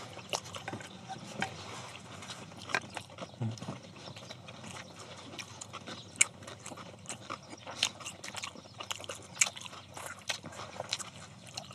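Close-miked chewing and lip-smacking of people eating stir-fried pork bulgogi: irregular wet clicks and smacks throughout, with a brief low hum about three and a half seconds in.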